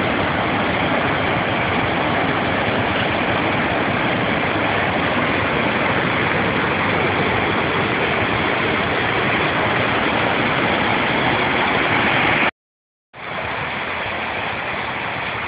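Steady rush of a large waterfall's falling water. It breaks off for about half a second near the end, then resumes a little quieter.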